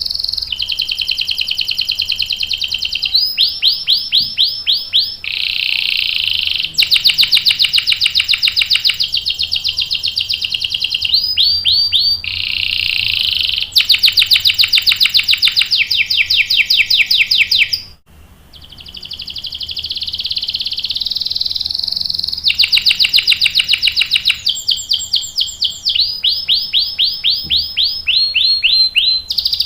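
Canary singing a long rolling song of fast trills and rapidly repeated notes, switching to a new phrase every second or two, with one brief pause about eighteen seconds in.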